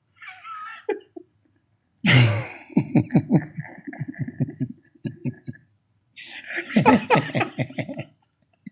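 Men laughing in two bouts of quick, pulsing laughter, the first starting about two seconds in and the second near the end.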